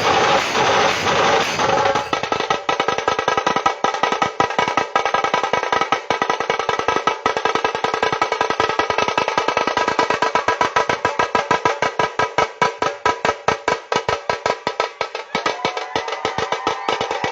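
Fast drumming, many strokes a second in an even rapid beat, over a steady ringing tone; the first couple of seconds are a denser, noisier mix before the drumming takes over.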